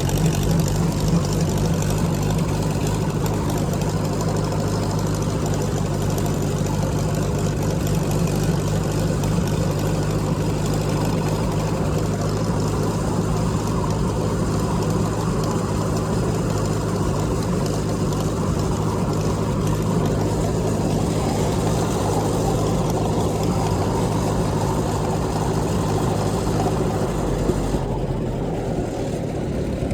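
Tractor engine running steadily under the rider, with a constant low drone. Near the end the higher part of the sound drops away while the low engine note carries on.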